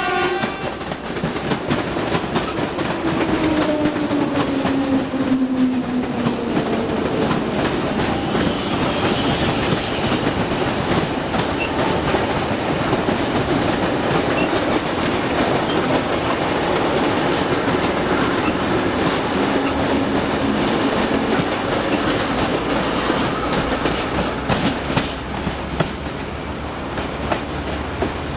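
A train passing close by, wheels clattering over the rail joints. Over the first few seconds its engine drone falls in pitch as it goes past.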